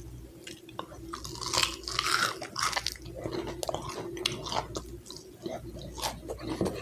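A person chewing and crunching food close to the microphone, in irregular bites and crackles, loudest about two seconds in.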